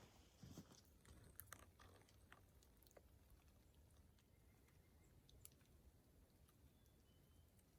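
Near silence: quiet outdoor background with a few faint, scattered ticks in the first few seconds.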